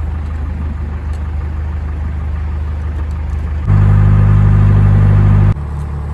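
Narrowboat's diesel engine running steadily while the boat reverses. It gets noticeably louder for about two seconds past the middle, then drops back abruptly.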